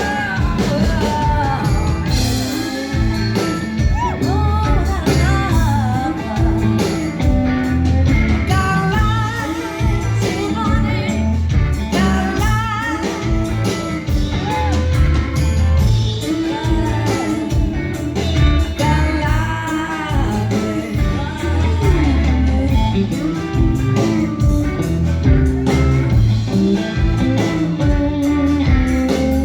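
Live blues-rock band performance: singing over electric guitar, bass and a steady beat.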